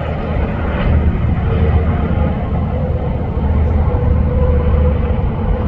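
Interstate highway traffic passing close by: a steady loud roar of truck and car engines and tyre noise, with a faint whine that grows stronger past the middle.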